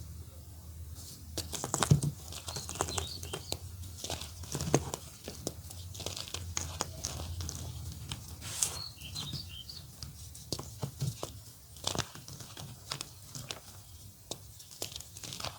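Block of gym chalk being crumbled, giving a run of irregular dry crunches and crackles. Birds chirp faintly a couple of times in the background.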